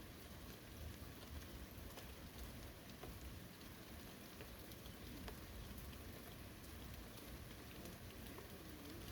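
Steady rain falling: a faint, even hiss with scattered ticks of single drops.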